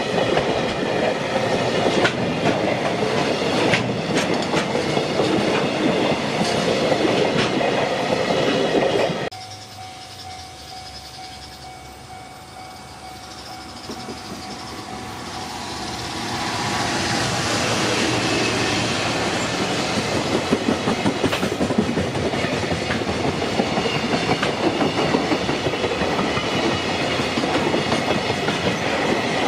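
Container freight wagons rumbling and clattering past over the rails. About nine seconds in the sound drops off suddenly to a quieter stretch with the level-crossing warning bell sounding. Then the next freight train, hauled by an EF210 electric locomotive, grows louder as it approaches, and its container wagons clatter past.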